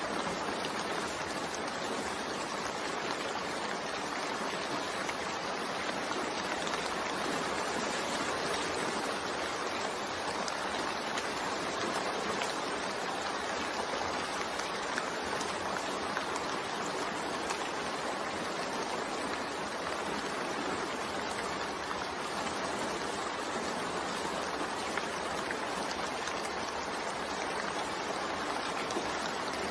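Steady rain falling, an even continuous hiss with no distinct drops or gaps.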